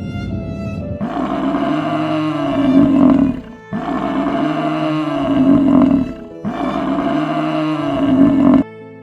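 A large animal roaring three times, each roar about two and a half seconds long, rising and then falling in pitch, over a music track.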